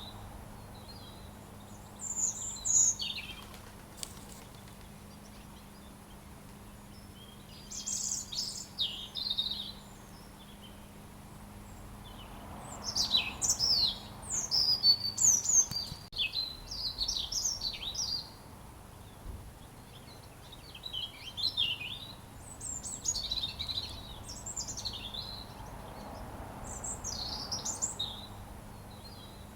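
A robin singing: phrases of quick, high, twittering chirps come every few seconds, with the longest run near the middle, over a faint steady hum.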